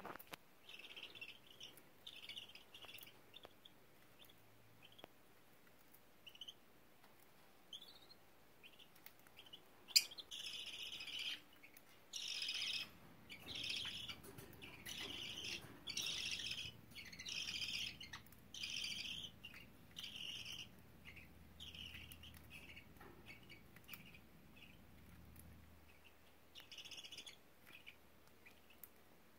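Budgerigars chirping in short repeated calls, sparse at first, then coming quickly, about one a second, for some ten seconds before thinning out again. A single sharp click about a third of the way in.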